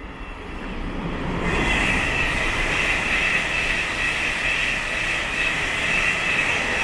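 Siemens Class 700 twelve-car electric multiple unit running through the station while still accelerating. A rushing rumble of wheels and air swells over the first second and a half and then holds loud. A steady high-pitched whine runs over it from that point on.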